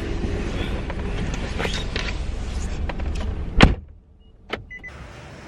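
Car door shut with a heavy thud about two-thirds of the way in, after a steady run of car noise with a few clicks. After the thud it goes much quieter, with a click and two short high electronic beeps.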